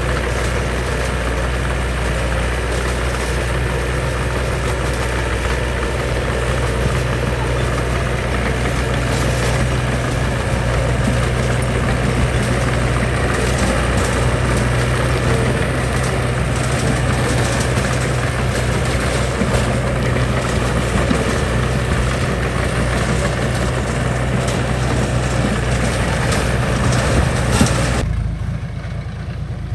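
Heavy construction machine's engine running steadily: a low drone with a rough, noisy clatter over it. Near the end the higher noise cuts off abruptly, leaving only the low engine drone.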